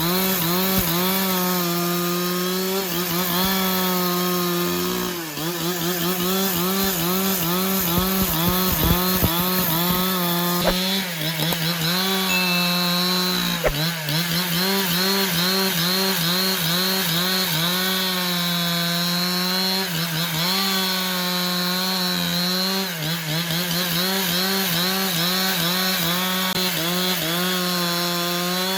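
Chainsaw running steadily while cutting wood, its engine pitch wavering and dipping again and again under load, with a few brief drops and recoveries.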